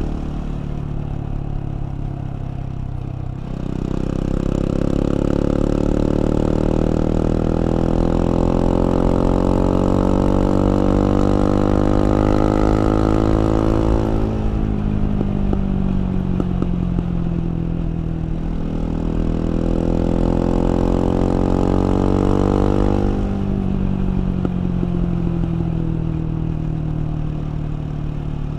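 KTM 690 Duke's single-cylinder LC4 engine pulling under throttle, its pitch climbing slowly for about ten seconds, then dropping as the throttle closes. A second, shorter pull follows, with the pitch rising again and falling away near the end.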